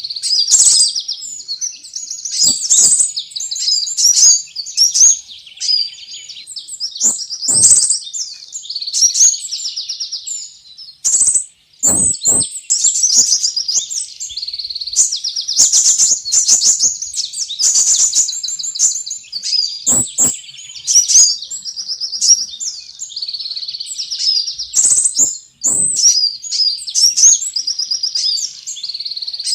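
Sunbirds ('kolibri') calling in a bird-lure recording: a dense, nearly continuous run of rapid, high-pitched chirps and trills with short breaks, and a few brief knocks.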